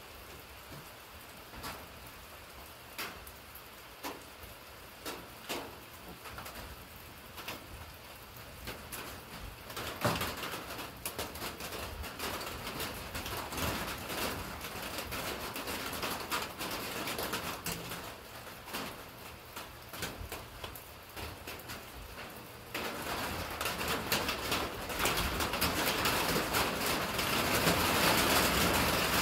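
Rain falling, at first as scattered separate drips, then thickening about ten seconds in. A little after twenty seconds in it steps up suddenly to a heavier, steady downpour that keeps building.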